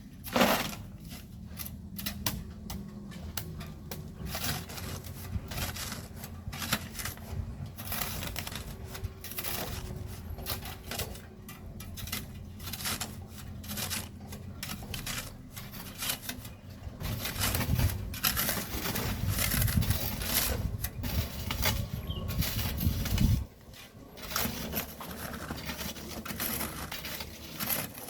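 Shovels and hand tools scraping and clinking irregularly in volcanic sand and stones, over a low rumble that cuts off suddenly near the end.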